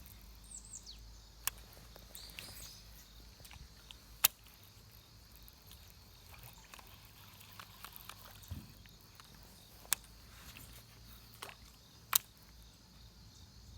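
Quiet outdoor background broken by four sharp, separate clicks, the loudest about four seconds in and near the end, with a couple of short high falling chirps in the first few seconds.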